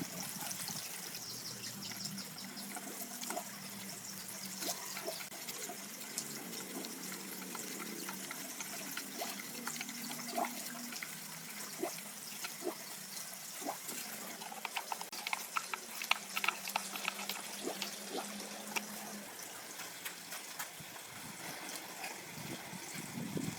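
Water trickling, with scattered small clicks and knocks and a faint low hum that stops about nineteen seconds in.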